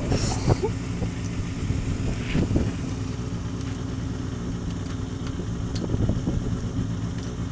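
Old motorcycle's engine running steadily at idle after being bump-started, its hold on running still shaky.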